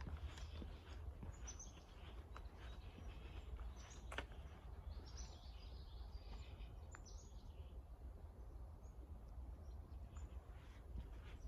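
Several wild birds chirping and singing faintly in short high notes, thickest around the middle, over a steady low rumble of wind or outdoor background, with a few sharp ticks.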